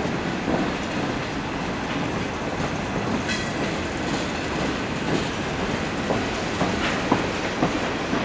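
Freight train rolling past: a steady rumble of cars on the rails, broken by a few irregular sharp clicks and knocks from the wheels.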